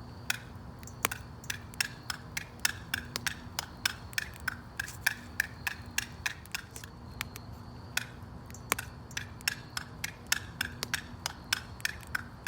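Wood fire crackling, with sharp, irregular pops several times a second over a low, steady rumble of the burning.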